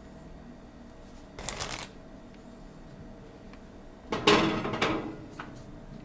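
Kitchen handling noise: a short rustle about a second and a half in, then a louder, longer rustling scrape about four seconds in, with a few light clicks.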